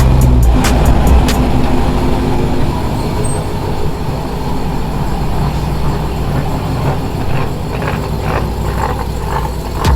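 Vehicle engine running with a deep low rumble, strongest for the first second and a half, then easing into a steady background of engine and traffic noise.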